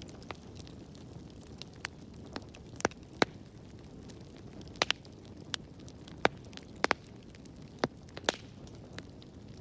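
Wood fire in a fireplace crackling: a low rumble of burning under irregular sharp pops and snaps, a dozen or so, some in quick pairs.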